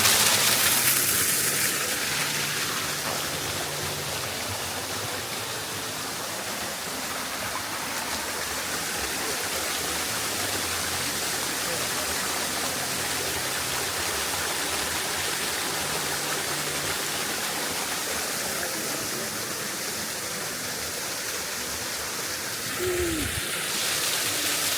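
Steady rush of running water, a little louder in the first couple of seconds and then even.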